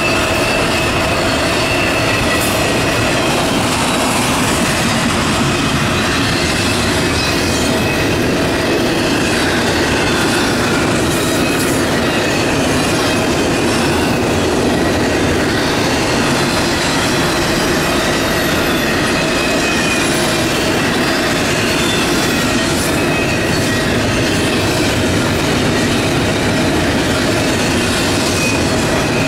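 Double-stack container well cars of a long CSX intermodal freight train rolling past, a steady, loud rumble and rattle of steel wheels on rail that holds even throughout.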